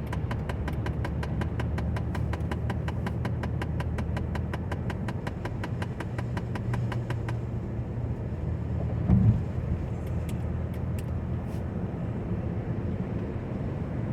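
Steady road and engine noise inside a car cabin at highway speed. A rapid, even ticking, about five a second, runs through the first half and stops about seven seconds in, and there is one short low thump about nine seconds in.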